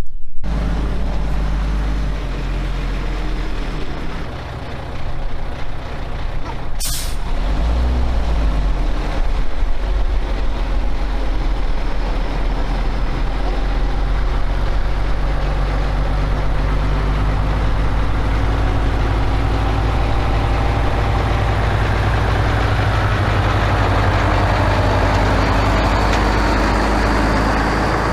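Old Autocar log truck's diesel engine running as the truck pulls in, a steady heavy hum throughout. About seven seconds in comes a short hiss of the air brakes.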